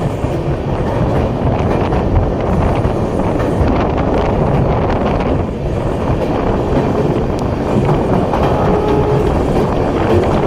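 Strong wind buffeting the phone's microphone, over a steady low rumble of a train running on the bridge.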